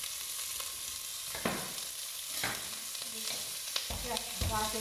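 Chopped onions sizzling in rendered duck fat in an enamelled cast-iron casserole, a steady frying hiss with a couple of sharp clicks. Near the end, dull knocks begin as a pestle starts pounding in a marble mortar.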